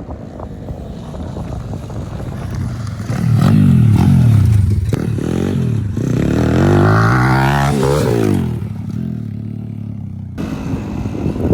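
Pit bike engine revving as it is ridden. The revs rise and fall in two loud surges, about three and six seconds in, then ease back to a lower, steadier note.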